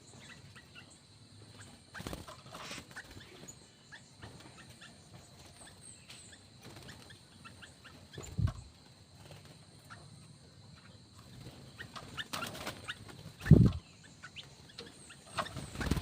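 Aviary birds calling with scattered short chirps and calls over a steady high whine, broken by two dull low thumps, the louder one about three-quarters of the way through.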